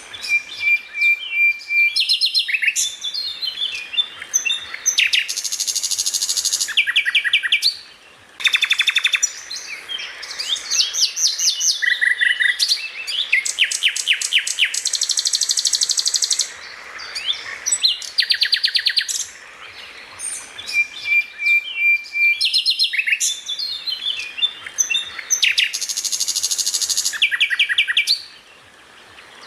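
A songbird singing a rapid, varied song of fast trills, chirps and whistled notes, with short pauses about eight seconds in and near the end. The same run of phrases comes round twice, as in a looped masteran recording used to train caged songbirds.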